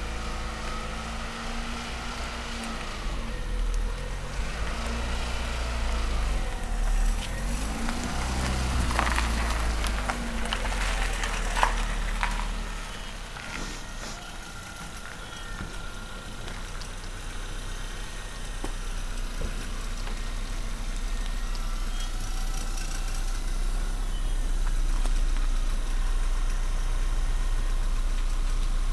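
Opel Astra Bertone's engine running, its revs rising and falling several times in the first ten seconds before settling to a steady idle.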